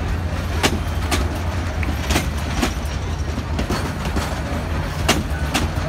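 Passenger train coaches rolling past close by: a steady low rumble with sharp wheel clicks, mostly in pairs about half a second apart, as the wheels cross rail joints.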